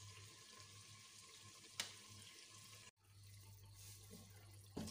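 Faint, steady sizzle of tomato masala frying on low heat in a clay handi, with one light click of the stirring spoon about two seconds in and a brief dropout in the sound near the middle.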